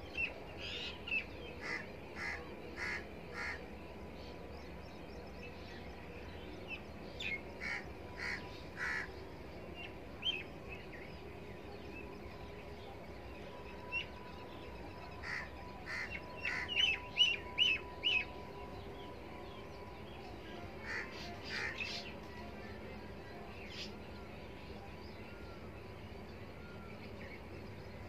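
Birds calling outdoors: short, sharp calls repeated several times in a row, in a few bouts, over a steady low background hum.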